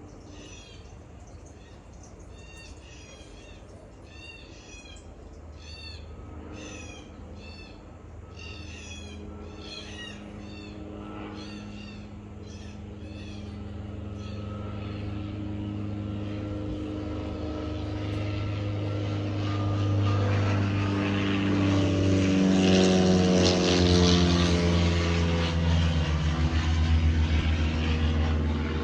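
An engine approaching and getting steadily louder, its hum dropping in pitch as it passes near the end, like a passing vehicle or low propeller plane. Birds chirp with short repeated calls in the first half.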